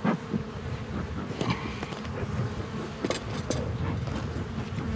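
Honeybees buzzing around a hive, a steady hum over a low rumble, with a few short clicks about three seconds in.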